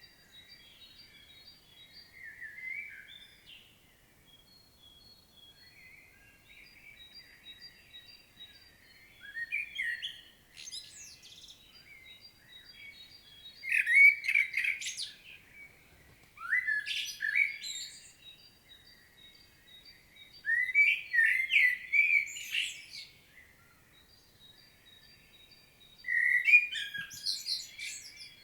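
Common blackbird singing: about six separate fluty, warbling phrases, each a second or two long and ending in higher twittering notes, with pauses of a few seconds between them.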